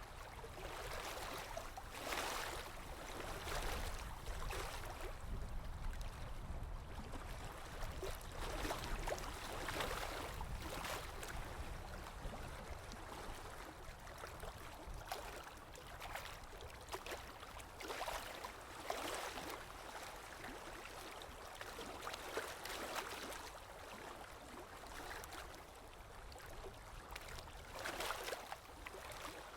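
Water moving and splashing steadily, swelling into louder surges every few seconds at irregular intervals, over a low rumble.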